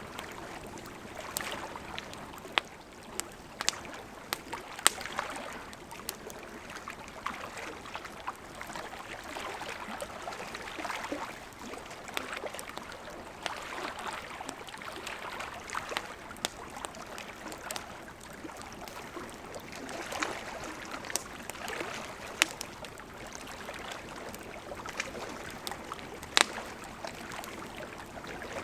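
Wood campfire crackling with irregular sharp pops, a few of them much louder, over the steady rush of a gently flowing river.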